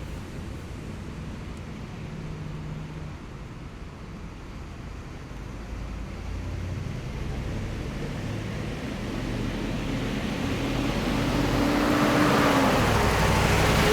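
Military vehicle engine approaching and passing. A low rumble grows louder over the last several seconds, and an engine tone drops in pitch as the vehicle goes by near the end.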